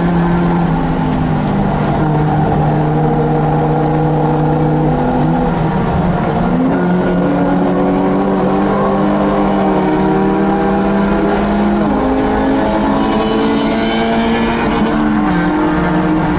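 Race car's engine heard from inside the cabin, running hard at fairly steady revs. Its pitch steps up about five seconds in and drops twice near the end.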